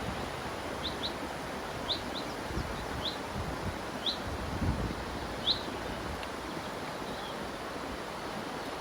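River water rushing steadily, with a bird giving short rising chirps every second or so that stop about five and a half seconds in.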